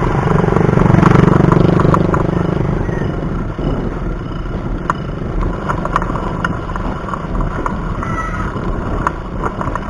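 Road traffic heard from a moving bicycle: a motor vehicle's engine rumble swells to its loudest about a second in as it passes, then eases off, with scattered light clicks throughout.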